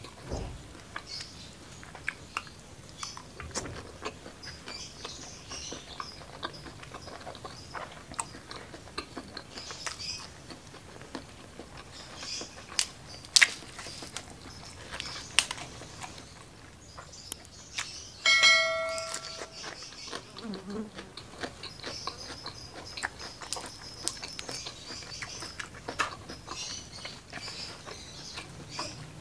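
Close-miked eating sounds: fried shrimp being chewed and crunched, with wet mouth sounds and many sharp clicks and crackles. About eighteen seconds in, a brief ringing tone sounds.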